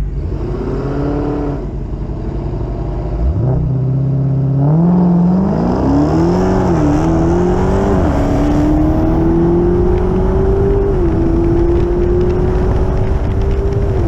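Dodge Challenger SRT Hellcat's supercharged V8 revving briefly, then launching and accelerating hard down the drag strip. Its pitch climbs and drops back at each of about three upshifts.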